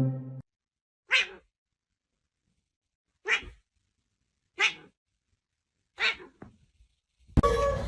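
A pet animal making four short, sharp huffs, each about a third of a second long and spaced one to two seconds apart. A louder sound starts abruptly near the end.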